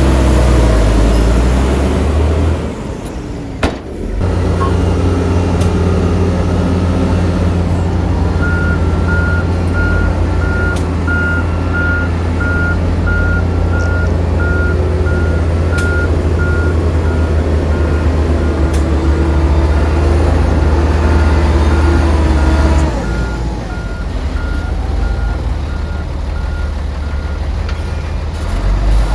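Heavy diesel machinery engine running, with a reversing alarm beeping steadily for about fourteen seconds in the middle. The engine dips briefly near the start and drops in level after the beeping stops.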